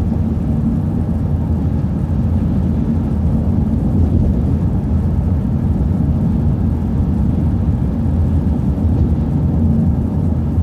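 City transit bus running, a steady low engine drone heard from inside the bus.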